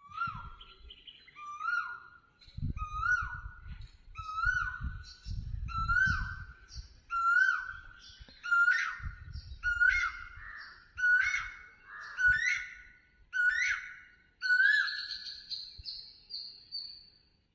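Male Asian koel calling its 'kuhoo' note over and over, about one call a second, the calls growing louder as the series goes on.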